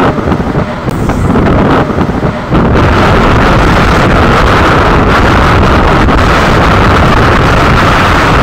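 Wind buffeting the microphone held out of a moving local train's door, over the train's running noise on the rails. About two and a half seconds in, it settles into a steady, louder rush.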